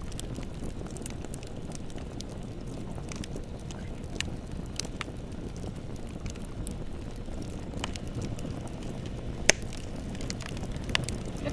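Bonfire burning with a steady low rumble and scattered sharp crackles and pops, one louder pop about nine seconds in.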